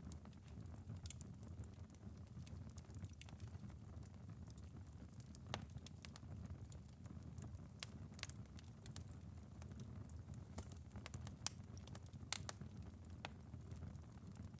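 Wood fire in a fireplace crackling, with scattered sharp pops over a low steady rumble, and light rain pattering on a window.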